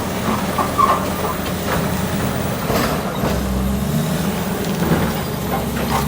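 Crawler bulldozer's diesel engine working, with several sharp clanks; the engine note drops and deepens about halfway through.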